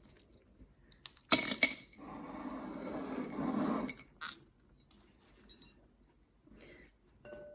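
Walnuts and shell pieces clatter sharply on a hard tabletop about a second in, then scrape and crunch for about two seconds, with a few faint clicks after.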